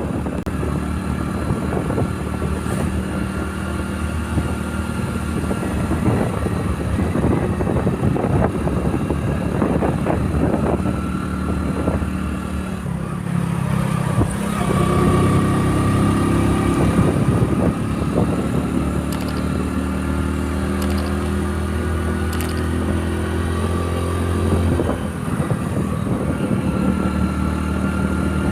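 Motorcycle engine running during a ride, its note growing stronger for about ten seconds in the middle.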